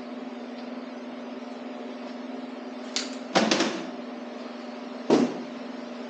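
Metal clanks of hand tools or engine parts being handled over a steady hum. A short clatter comes about three and a half seconds in and a single sharp knock about five seconds in.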